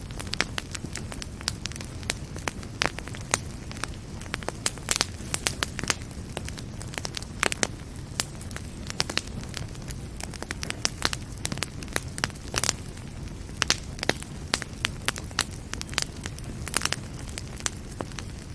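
Wood fire burning in a fireplace: irregular sharp crackles and pops, several a second, over a steady low rumble of flame.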